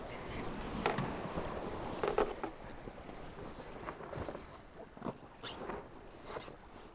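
Wind and water noise aboard a Tornado racing catamaran under way, with rustling and a few short knocks from the crew handling lines and gear during a manoeuvre, clearest about a second in, two seconds in and five seconds in.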